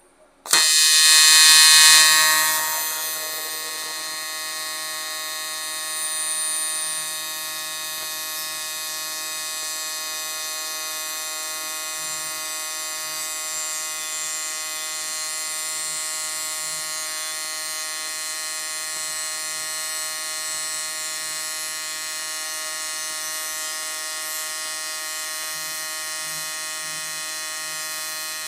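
AC TIG welding arc on 6061 aluminium, a steady buzz at a 150 Hz AC frequency as an end cap is welded onto an intake runner. The arc strikes about half a second in, louder for the first couple of seconds, then settles to an even buzz.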